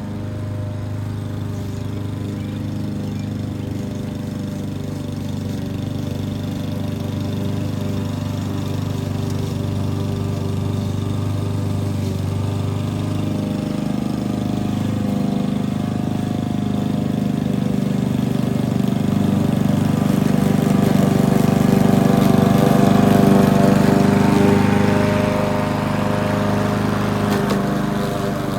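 Lawn mower engine running steadily, growing louder about two-thirds of the way through and then easing off near the end.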